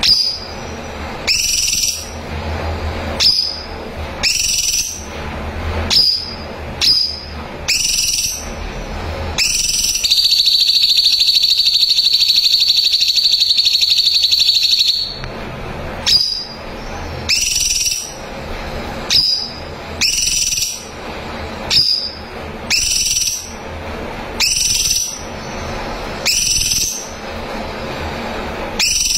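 Cucak cungkok singing: short, sharp high notes repeated about once a second, broken in the middle by a loud buzzing trill held for about five seconds.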